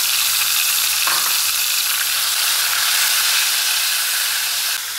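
Chopped tomato sizzling loudly in hot ghee with browned onions in an aluminium pan, spattering as it is stirred with a spatula. The sizzle eases slightly near the end.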